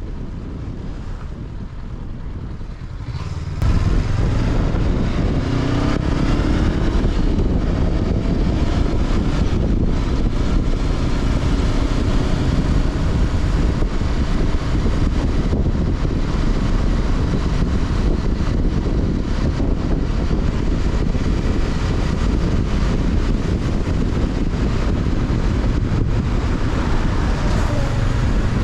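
Honda CB500X parallel-twin engine heard from onboard while riding: it gets suddenly louder about three and a half seconds in, rises in pitch as the bike accelerates, then settles to a steady run with wind noise on the microphone.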